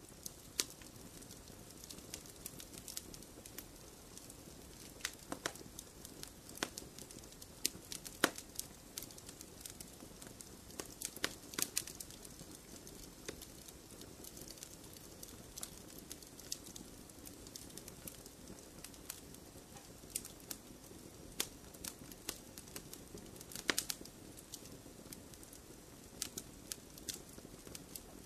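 Log fire crackling: irregular sharp pops and snaps over a steady low hiss of burning wood.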